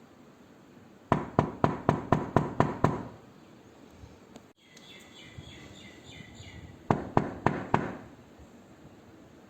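Knocking on a door: a quick run of about eight knocks, then after a pause a shorter run of four.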